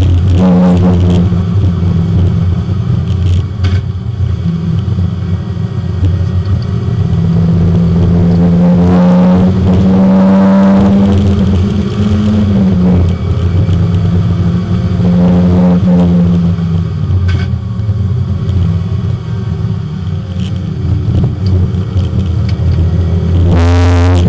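Porsche 924 race car's four-cylinder engine, heard from inside the cabin, revving up hard under acceleration and dropping back off several times as the car is driven at speed around a circuit.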